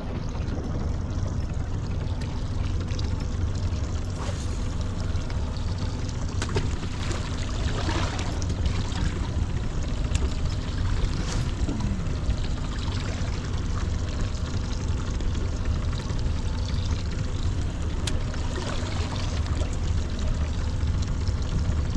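Water splashing and trickling around a small boat, over a steady low rumble, with a few scattered clicks.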